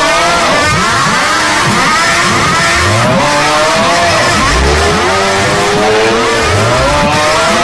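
A loud car engine revving over and over, its pitch sweeping up and falling back again and again.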